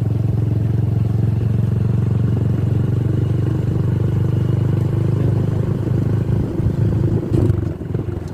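Honda RS125 motorcycle's single-cylinder four-stroke engine running on an open pipe, a steady exhaust note that turns uneven about six seconds in and dips briefly near the end.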